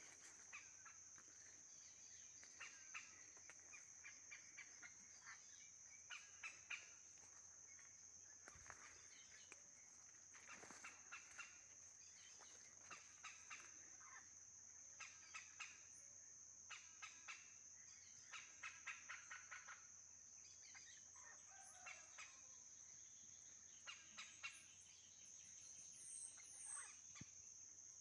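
Faint calls of a bird, each a quick run of rapid notes, repeated every second or two, over a steady high-pitched drone.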